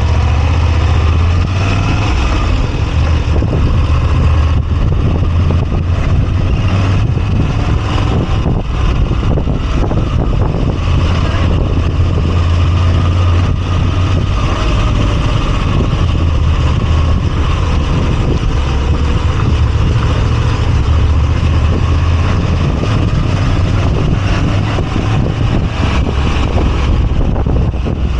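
Moto Guzzi V85TT's air-cooled transverse V-twin engine running steadily on the move, with a deep low hum that swells a little in places.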